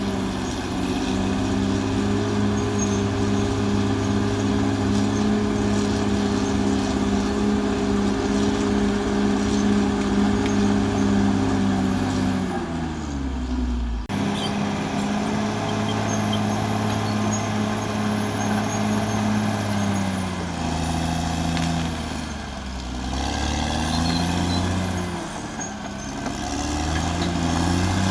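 Caterpillar D6R XL bulldozer's diesel engine running hard with a steady note and a faint high whine. About halfway through the engine note drops, and near the end it dips and comes back up twice.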